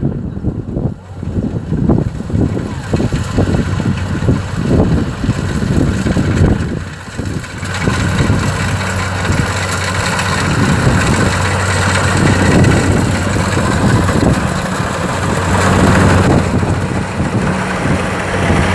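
Kubota DC-70 combine harvester's diesel engine running steadily in the field, with gusts of wind buffeting the microphone for the first several seconds; about eight seconds in the machine's steady hum and threshing noise become louder and dominate.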